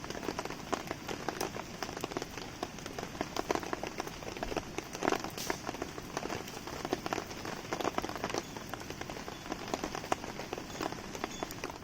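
Steady rain with a dense, irregular patter of drops, mixed with the crackle of a wood campfire burning in a fire stand. One louder snap comes about five seconds in.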